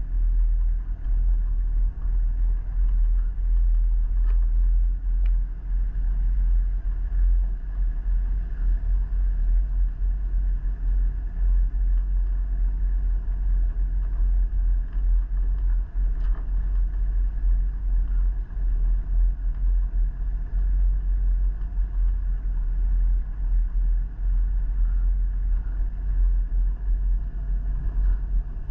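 Steady low rumble of a vehicle on the move, mostly deep road and wind rumble with a few faint ticks.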